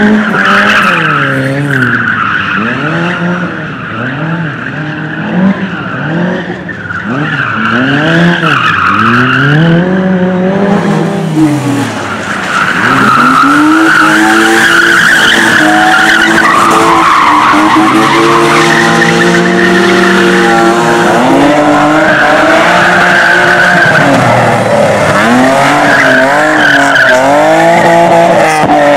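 Race car engine revving hard and dropping back again and again, the pitch climbing and falling with each burst of throttle and gear change, with tyres sliding. It grows louder about halfway through and stays at full volume.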